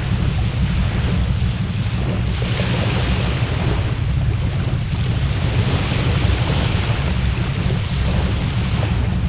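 Wood bonfire burning with a steady rushing of flames and a few faint crackles, over a low rumble of wind on the microphone. A constant high whine runs underneath.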